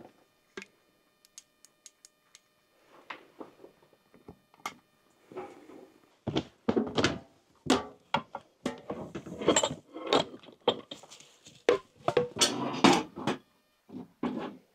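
Handling noise: a run of knocks, thunks and clatter with rustling as things are moved and set down. It is sparse, with a few light clicks for the first several seconds, then busier and louder from about halfway through until shortly before the end.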